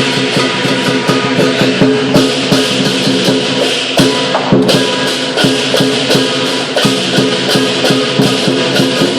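Lion dance percussion: drum, cymbals and gong beating a fast, steady rhythm, with the cymbals' bright clash and the gong ringing under it. The beat stops near the end and the ringing dies away.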